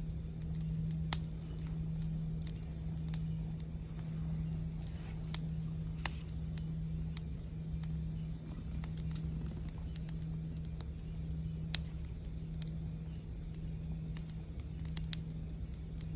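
Campfire crackling with scattered sharp pops, a close pair near the end, over the low, steady hum of a singing bowl that swells and fades gently.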